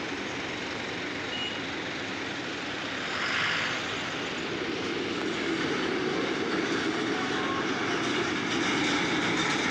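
Pune Metro train heard from inside the carriage: a steady rumble and hiss that grows louder in the second half.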